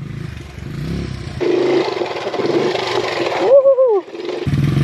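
Honda 70 pit bike's small single-cylinder four-stroke engine running under riding, with a short wavering voice-like call about three and a half seconds in.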